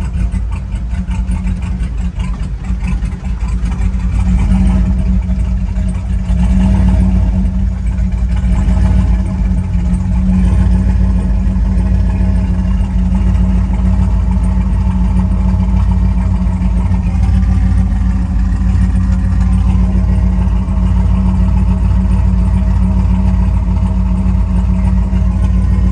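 Turbocharged 6.0-litre V8 engine of a Chevrolet Silverado running steadily, getting louder at about four and seven seconds in and then holding. The owner says the engine is losing oil pressure and runs as if untuned.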